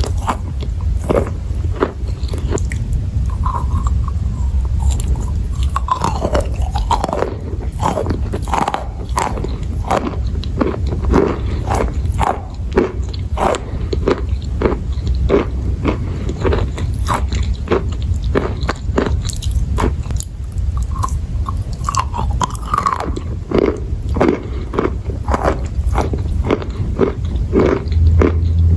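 Crunchy chalk and clay being bitten and chewed: a continuous run of sharp crunches, about two a second, over a steady low hum.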